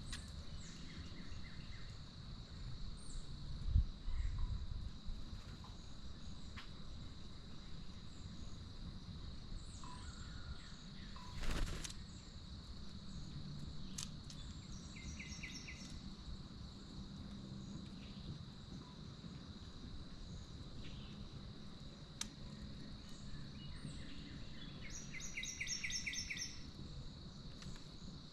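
Steady high insect drone, like crickets, with a few bird calls over it: a short run of quick notes about halfway through and a longer rapid run of chirps near the end. Two low thumps stand out, one about four seconds in and one about a third of the way through.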